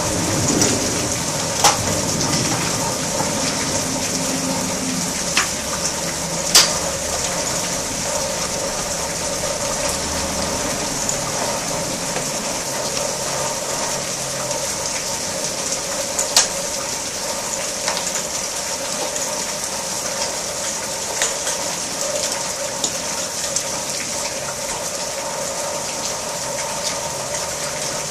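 Heavy rain falling on garden plants: a steady hiss, with scattered sharp taps of drops landing close by. A low rumble sits under it for the first few seconds.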